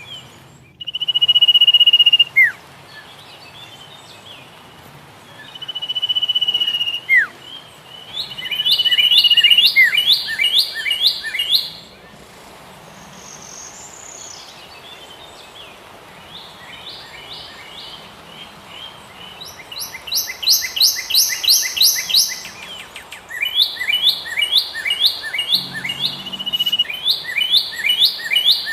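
Songbirds singing: long held high whistled notes, each ending in a quick downward slur, then fast runs of sharp repeated chirps. The loudest run comes about two-thirds of the way through.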